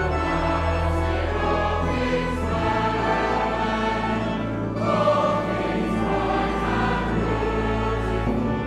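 Choral music: a choir singing sustained chords over held low notes, in the style of sacred music.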